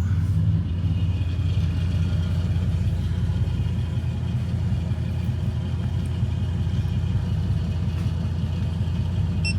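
Truck engine idling steadily, a low, even engine sound with no revving.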